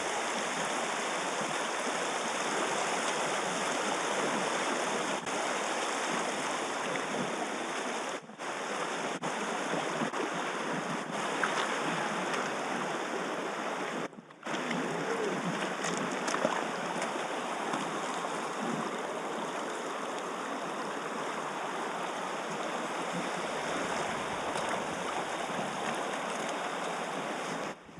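River water rushing steadily past a packraft as it floats downstream, with two brief breaks in the sound.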